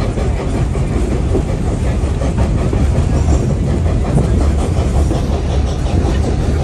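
Train running along the track: a steady low rumble with fast, irregular clicking of wheels on the rails.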